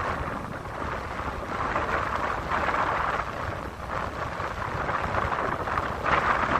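Strong wind buffeting the microphone with a low rumble, over the rushing wash of ocean surf that swells and eases several times.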